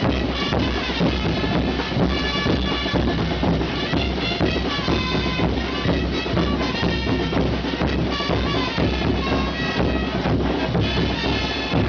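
Live festival dance music: drums beating under held, shrill wind-instrument tones, playing continuously.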